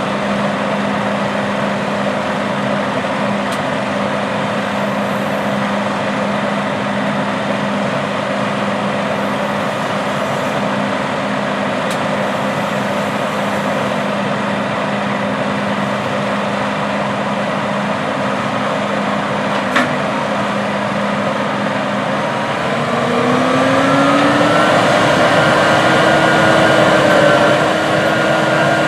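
Heavy diesel farm machinery running steadily, then its engine note rising and getting louder about three quarters of the way through, as if the machine is throttling up.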